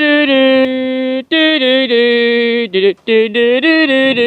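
A single voice singing a wordless tune in long, held notes, with brief breaks between phrases.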